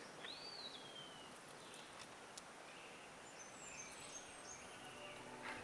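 Faint outdoor ambience with a bird calling: one call that rises and then slides slowly down in pitch, then a few faint high chirps.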